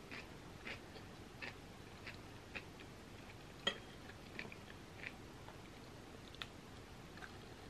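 Close-miked chewing of red lentil pasta, soft wet chews recurring roughly every two-thirds of a second. A sharp clink a little past halfway as the fork scrapes the bowl, with a lighter click later.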